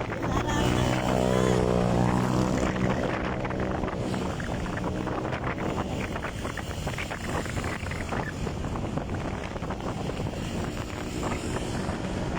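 Motorcycle engine running steadily, with wind buffeting the microphone. Over the first few seconds an engine note falls in pitch as the sound swells to its loudest.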